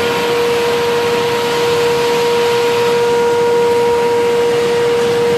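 Medium-frequency induction melting furnace running under power, giving a steady, unwavering hum at one pitch over a constant wash of workshop noise.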